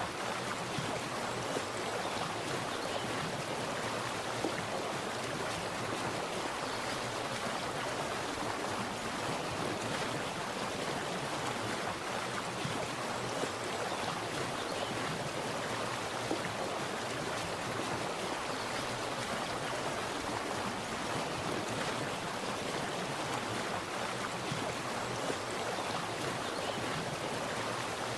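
Splashing water running steadily: an even rushing wash with small, irregular splashes flickering through it.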